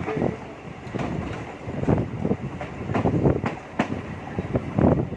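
MEMU electric train running on the track, its wheels clattering over rail joints in a series of uneven knocks over a steady rumble.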